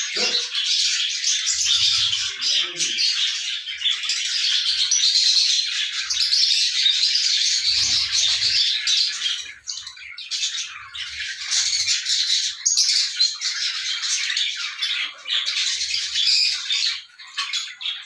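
Birds calling continuously, a dense high-pitched chatter with short lulls about ten seconds in and near the end.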